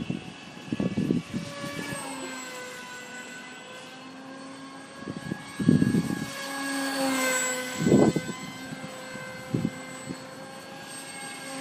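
RC model airplane's motor whining steadily in flight, getting louder about halfway through as its pitch drops and then settles. Several short low rumbles of wind on the microphone break in over it.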